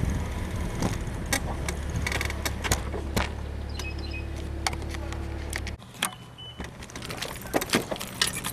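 Bicycle being ridden, with repeated sharp creaks and clicks from the frame's rear suspension, which the rider puts down to a worn suspension bushing. A steady low rumble underneath cuts off suddenly about six seconds in.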